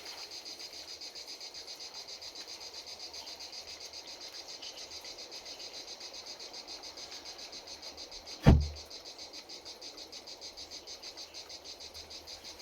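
Insects chirping in a steady high-pitched pulsing trill, about six pulses a second. About eight and a half seconds in there is a single loud, dull thump.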